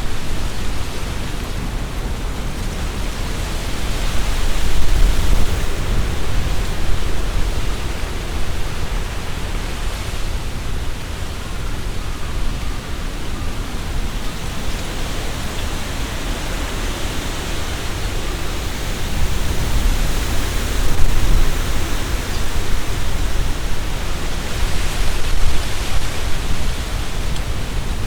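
Strong wind gusting through tree leaves: a steady rustling that swells with each gust, several times over, with a deep wind rumble on the microphone underneath.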